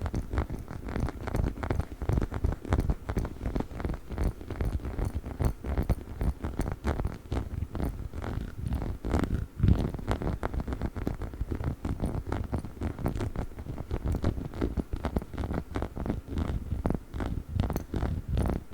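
A dog's chicken-shaped chew toy being scratched and rubbed close to the microphone: a dense, fast stream of small soft strokes, without squeaks.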